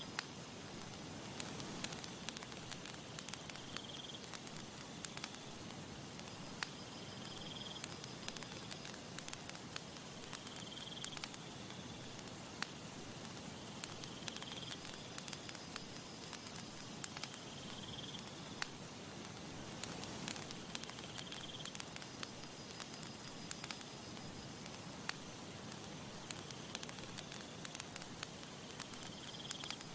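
Campfire crackling, with frequent sharp pops and snaps over a soft steady hiss. A short, high chirp repeats about every three and a half seconds.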